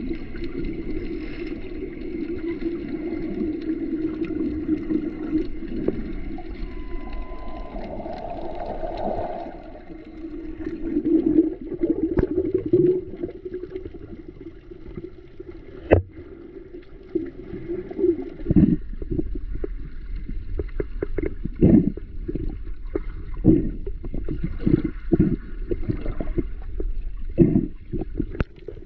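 Muffled water sound of swimming while snorkeling: sloshing and gurgling water around the microphone. From about two-thirds of the way in, it turns into a run of short splashes and knocks.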